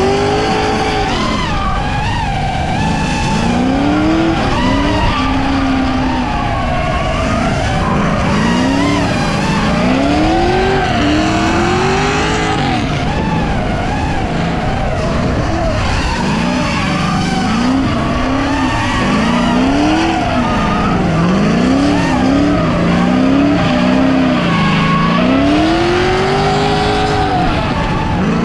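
GM LS V8 in a Nissan S13 coupe drift car being driven hard, its pitch climbing and dropping again and again as the throttle is worked, with tyres squealing and skidding underneath.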